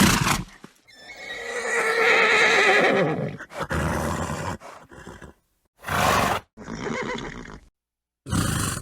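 A horse neighing: a short burst, then one long whinny that drops in pitch at its end, followed by several short, breathy snorts.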